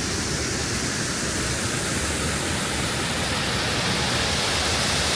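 Waterfall: a steady, even rush of falling water, growing slightly louder toward the end.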